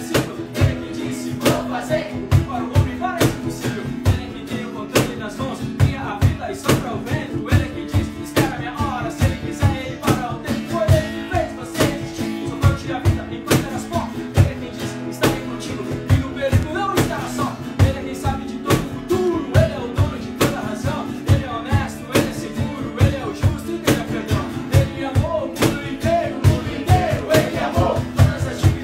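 Live worship song played by a band: a steady drum beat under guitar, with singing.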